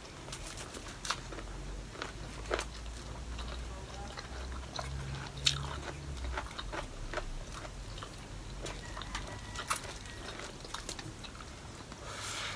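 Close-up sounds of a person eating: chewing and biting food, with scattered sharp clicks throughout.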